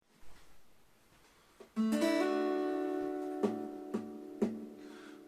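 Acoustic guitar opening: a chord strummed about two seconds in and left ringing as it fades, with three short sharp strokes on the strings near the end.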